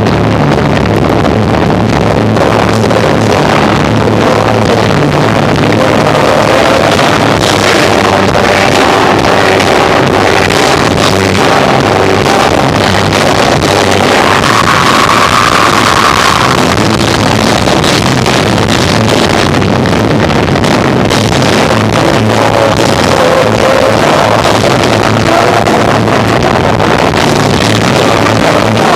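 Live rock band of electric guitar, bass and drums playing loud, the recording overloaded so that it comes out as a distorted, muddy roar.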